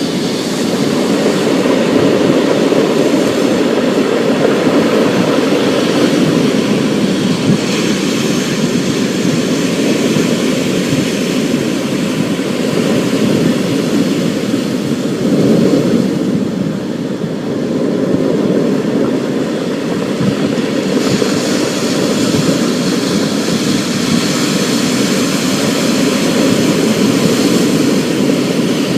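Thunderstorm: a dense, steady rushing of rain with a heavy low rumble under it; the higher hiss thins for a few seconds midway.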